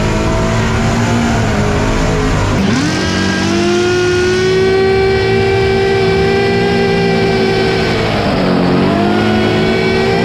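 Supercharged V8 of a burnout car revving hard during a burnout. Its pitch climbs sharply about two and a half seconds in, holds high, dips briefly near the end and climbs again.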